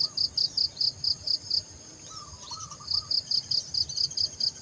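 Forest insects chirping: a steady high buzz with a rhythmic high chirp, about five a second, that pauses about a second and a half in and starts again about a second later.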